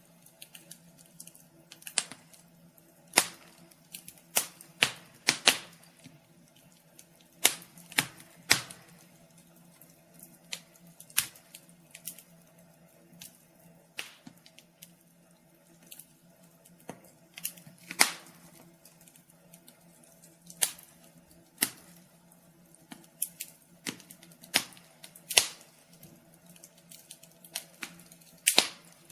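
Wood fire crackling: sharp, irregular pops and snaps, one to three a second, over a faint steady hum.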